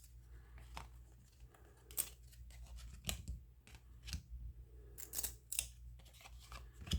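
Baseball trading cards being flipped through and slid against one another by hand. The sound is a series of irregular crisp flicks and swishes.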